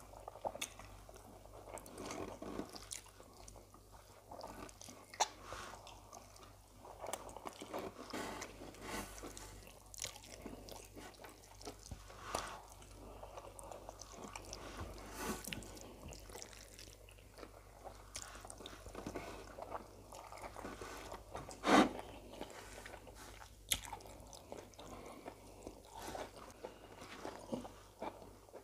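Two people eating rice, stew and plantain with their hands: chewing and wet mouth sounds with many scattered short clicks, one louder click a little past the middle.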